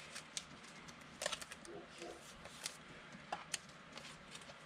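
Trading cards being handled and flipped through: faint, irregular light clicks and rustles of card stock.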